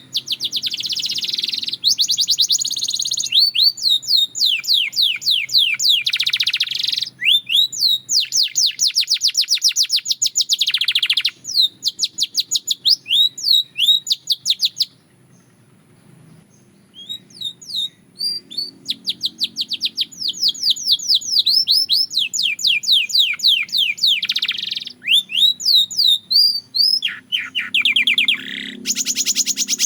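Canary singing in long runs of rapid repeated notes, fast trills and rolls, with a short pause of about two seconds midway before the song resumes.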